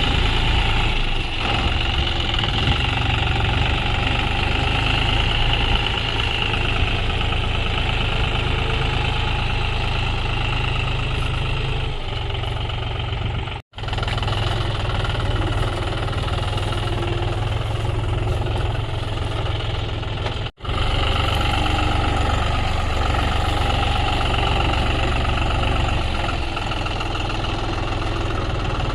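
John Deere tractor's diesel engine running steadily under load. The sound cuts out abruptly twice for a split second.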